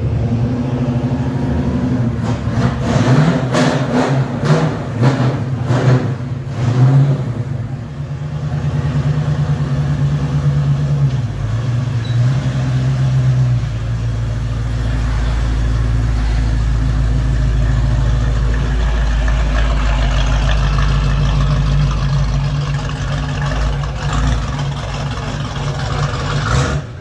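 Classic Chevrolet Camaro V8 with a deep exhaust rumble. It is blipped up in a series of quick revs between about two and seven seconds in, then runs on at low, steady revs as the car is maneuvered, with the deep low rumble growing heavier from about halfway.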